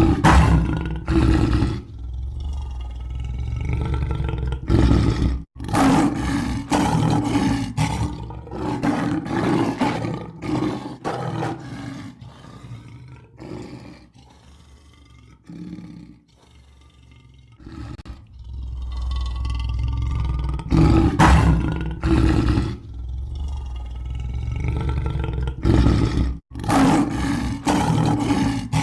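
Lion roaring, a series of loud roars that die down to quieter calls for several seconds midway, then build back up to loud roaring.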